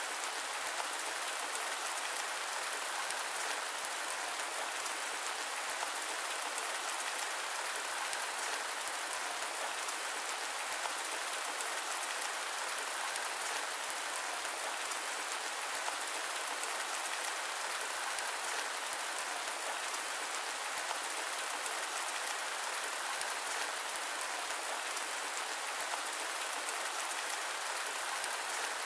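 Steady rain falling, an even, unbroken hiss of dense drops with no thunder and no change in strength.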